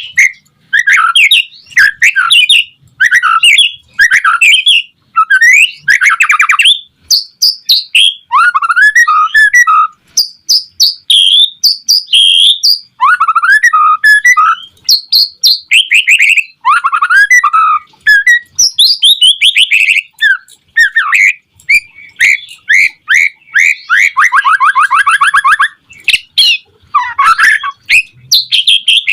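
White-rumped shama (murai batu) in full song: rapid, varied phrases of loud whistles, sweeping glides and chirps, delivered in bursts with short pauses between them. A long, fast trill comes near the end.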